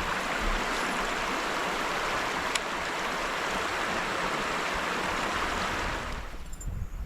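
River water rushing over a rocky shoal, a steady hiss that falls away suddenly about six seconds in.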